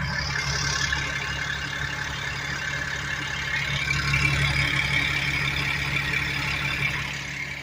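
Caterpillar diesel engine of a motorhome idling steadily just after a cold start, still very cold: a steady low hum with a hiss above it.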